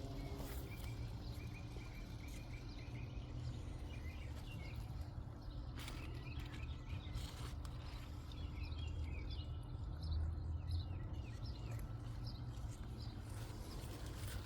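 Small birds chirping in quick repeated notes, in two spells, over a steady low rumble of outdoor background noise, with a few faint rustles.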